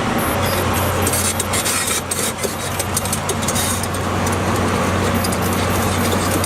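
Heavy diesel engine of a Tata Hitachi excavator running steadily, with scattered clicks and rattles.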